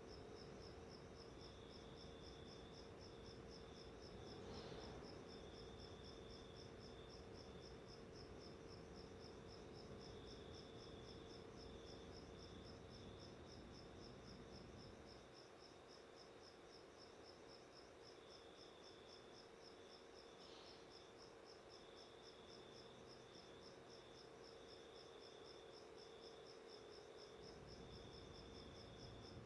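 Faint, even, high-pitched chirping that pulses rapidly without a break, with a second high tone coming and going and a low steady hum underneath.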